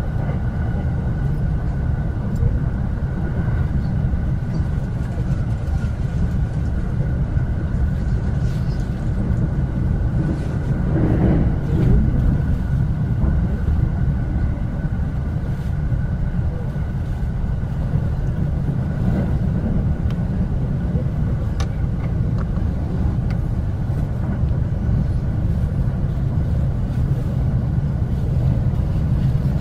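Electric commuter train running at speed, heard from inside the carriage: a steady low rumble of wheels on rails with a faint steady whine above it, swelling briefly about eleven seconds in.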